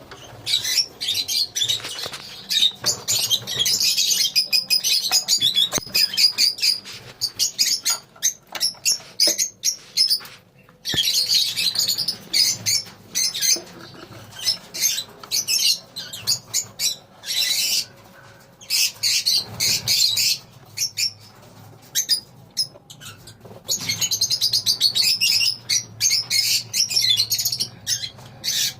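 A colony of lovebirds chattering: shrill, rapid high chirps and squawks from many birds at once, coming in bouts with short lulls between them.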